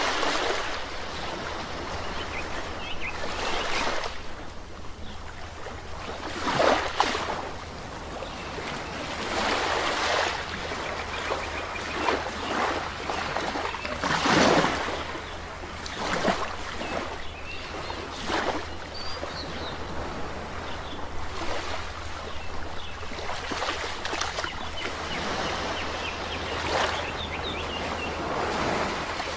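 Sea waves breaking and washing onto a beach in repeated surges a few seconds apart, with faint bird chirps now and then.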